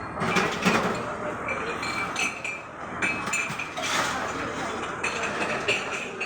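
Tableware clinking: short clicks and brief ringing chinks of glasses and utensils over a steady hum of room noise.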